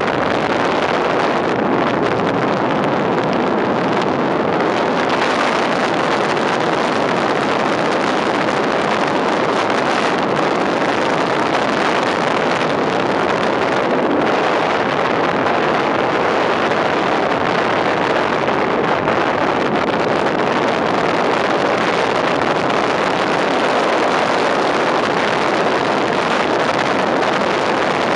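Loud, steady wind noise rushing over the microphone in a moving car, mixed with the car's road noise.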